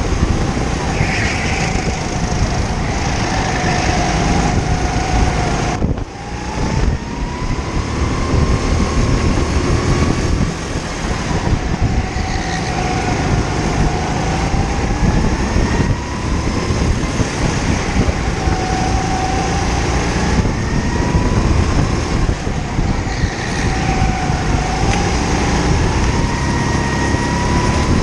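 Racing kart engine at full throttle, its pitch climbing and falling again and again as the kart accelerates down the straights and slows into the corners, over steady tyre and wind noise. About six seconds in the sound briefly drops away sharply.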